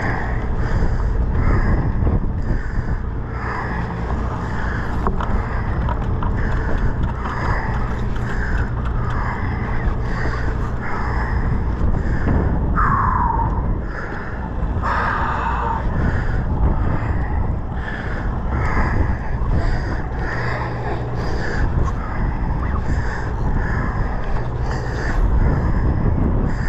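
Sportfishing boat's engine running steadily with wind and water noise, overlaid by a rasping stroke that repeats about every three-quarters of a second. Two short falling squeals come near the middle.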